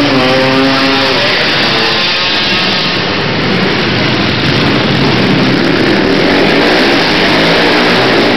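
Racing quad ATV engines revving and running hard, loud and continuous, with the engine pitch rising and falling as riders throttle through the track; one engine stands out near the start.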